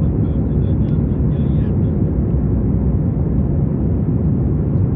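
Steady low cabin noise of an airliner: the drone of its engines and rushing air, heard from inside the cabin.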